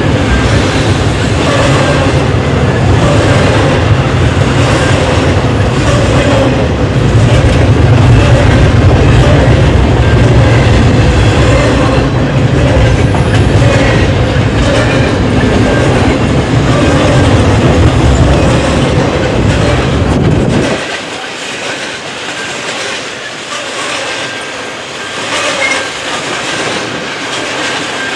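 Canadian National double-stack container train rolling past: the steady rumble and clickety-clack of the well cars' wheels on the rails. The deep part of the rumble drops away sharply about three-quarters of the way through, leaving a lighter clatter.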